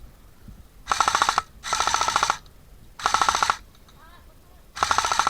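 Airsoft gun firing four short full-auto bursts of about half a second each, every burst a rapid even stream of shots.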